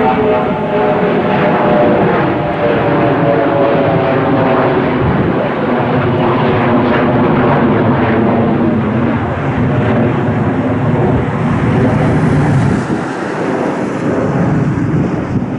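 Jet airliner engines running loud and close, a whine of several tones fading out over the first few seconds under a steady roar that eases off near the end.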